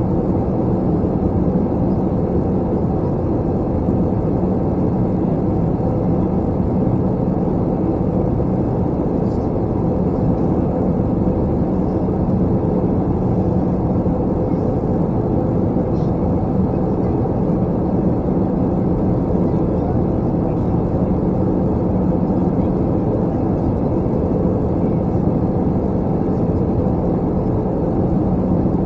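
Steady cabin drone of an Airbus A321 in flight: engine and airflow noise heard from inside the cabin, with a steady low hum.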